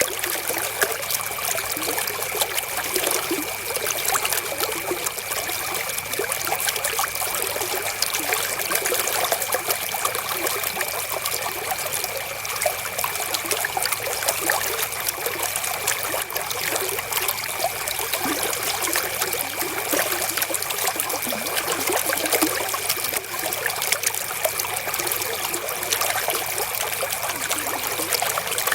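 River water flowing steadily, a continuous trickling and babbling with many small splashes.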